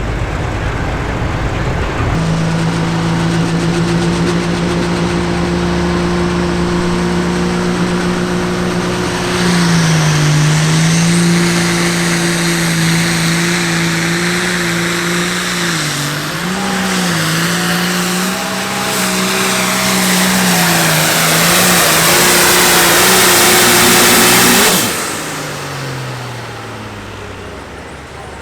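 Hot farm tractor's turbocharged diesel engine at full throttle pulling the sled: a steady engine note that climbs with a high whistle about ten seconds in, wavers as the engine lugs and grows louder, then cuts off suddenly a few seconds before the end and winds down.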